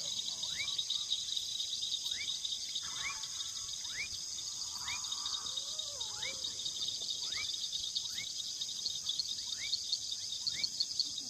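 Evening outdoor ambience dominated by a steady shrill chorus of insects, crickets among them. A short rising call repeats about once a second over it.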